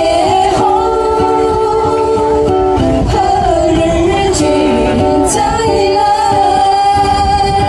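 Ukuleles strumming chords to accompany singing, with a long held sung note in the second half.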